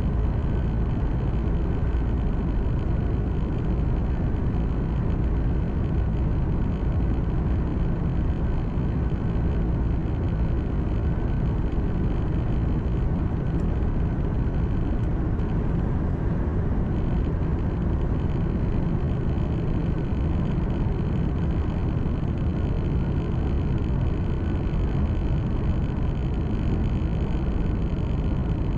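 Steady engine hum and road noise heard from inside a truck's cab while driving, deep and unchanging throughout.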